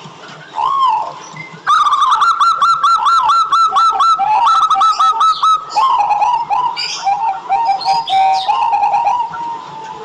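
Zebra dove (perkutut) singing with clear coos: a single note, then from about two seconds in a fast run of short rising-and-falling coos, several a second, going on in bursts until near the end.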